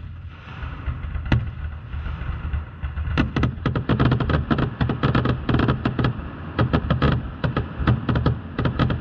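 Aerial fireworks going off: a single shell bang about a second in, then from about three seconds in a rapid barrage of launches and bursts, several sharp cracks a second over a low rumble of booms.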